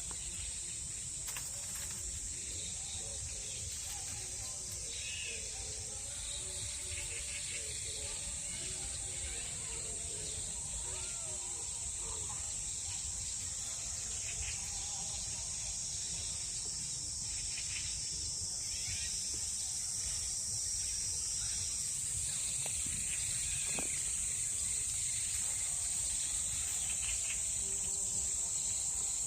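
Steady, high-pitched drone of a chorus of insects, with scattered bird chirps and calls over it.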